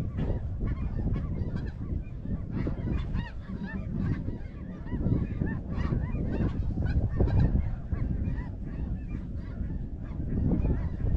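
A flock of snow geese calling: many short, high, overlapping yelps in a continuous chorus, over a steady low rumble.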